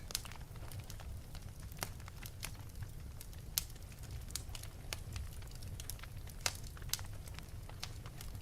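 Wood fire burning in an open fireplace: irregular sharp crackles and pops over a steady low rumble of the flames, with a few louder pops.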